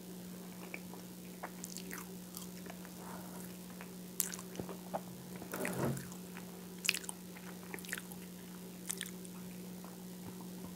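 Close-miked mouth sounds of a person chewing a mouthful of peanut-butter banana toast: scattered wet clicks and smacks, with a denser, louder cluster about six seconds in. A steady low hum runs beneath.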